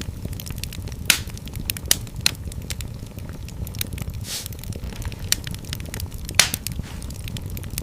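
Wood fire in a fireplace crackling, with irregular sharp pops (the loudest about a second in, near two seconds and past six seconds) over a steady low rumble of the flames. There is a short hiss a little past the middle.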